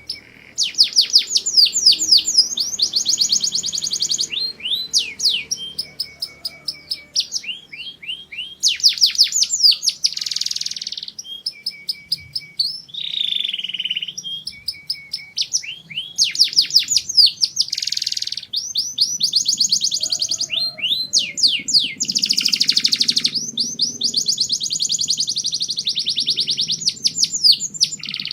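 Domestic canary singing a long, continuous song of rapid trills: fast runs of repeated sweeping notes broken by a few held, buzzy phrases.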